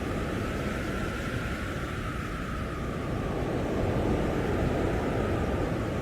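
Blizzard wind blowing hard, with a deep rumble and a faint wavering howl, gusting a little louder about four seconds in.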